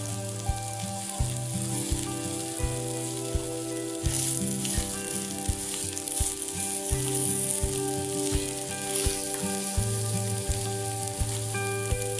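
Corned beef sizzling in a small frying pan, the sizzle swelling about a third of the way in, under background music with a steady beat and a stepping bass line.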